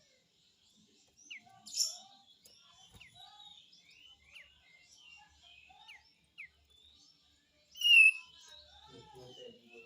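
Kapas tembak, a bulbul, calling in its 'besetan' style: a run of short, sharp falling chirps, broken by two louder harsh notes, one about two seconds in and one near the end.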